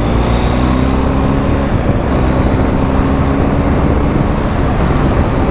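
BMW R1250 GS Adventure's boxer-twin engine running steadily at road speed, under loud, even wind and road noise.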